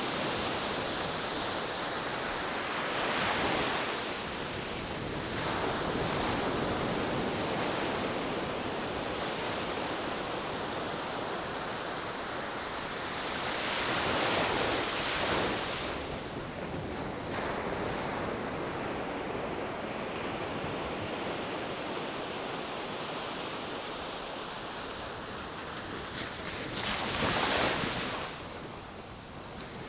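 Ocean surf washing steadily onto the shore. The waves swell louder a few seconds in, again in the middle, and most strongly near the end.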